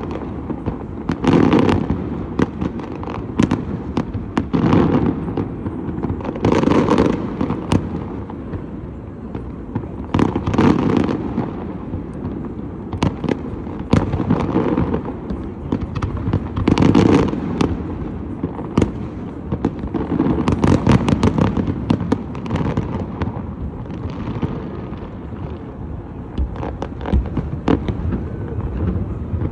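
Aerial fireworks display: shells bursting in quick succession, with a louder cluster of booms every two seconds or so and a dense crackle of smaller reports in between.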